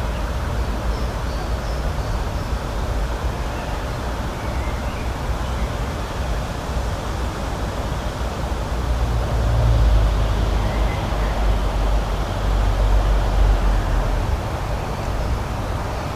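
Outdoor spring ambience: a steady rushing noise with low wind rumble on the microphone that swells about nine seconds in and eases a few seconds later. Faint, short bird chirps sound now and then above it.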